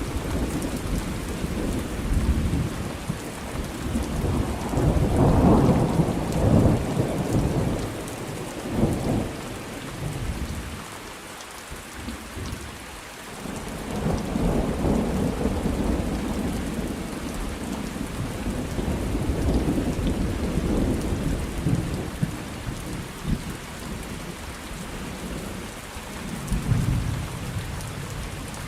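Thunderstorm: steady rain with rolling thunder. One long rumble swells about four seconds in and peaks around six seconds, dies away, then a second, lower rumble builds from about fourteen seconds.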